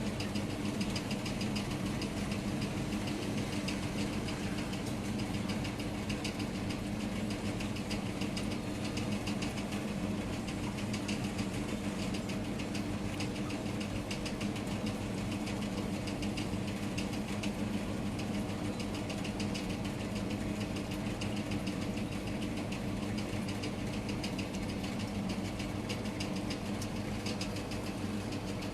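Steady rainfall, a dense continuous patter of drops, over a constant low mechanical hum.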